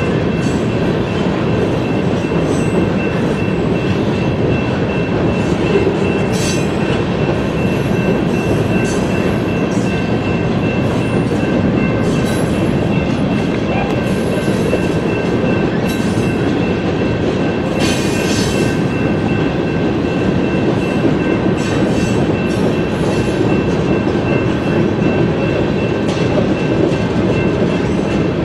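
Freight train cars rolling steadily past on the rails: a continuous loud rumble with a faint, steady high whine from the wheels and brief high squeaks now and then.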